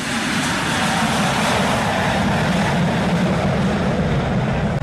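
Aircraft engine noise with wind rushing over the microphone: a loud, steady, even roar that sets in just before and holds throughout.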